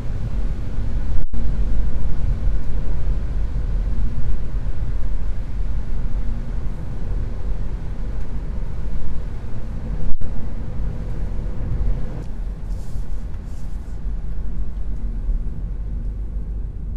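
2023 Kia Niro hybrid's 1.6 GDI four-cylinder petrol engine running while the car drives, with a steady low road rumble. The sound cuts out for an instant twice, about a second in and about ten seconds in.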